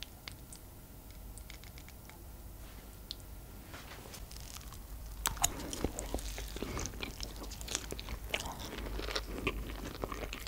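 Close-miked eating: a mouthful of potato and minced-beef bake being chewed, with many sharp clicks and crackles from about halfway through. Before that there are only a few light clicks.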